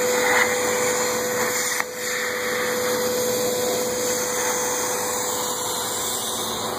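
ESAB Piecemaker plasma cutting table running: a steady hiss with a steady tone through it, dipping briefly about two seconds in.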